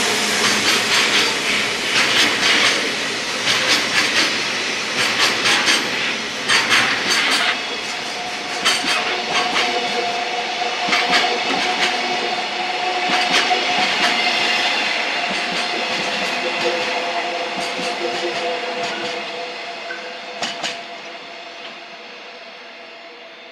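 A passing train, its wheels clattering over rail joints, with a steady whine underneath, fading away as it recedes.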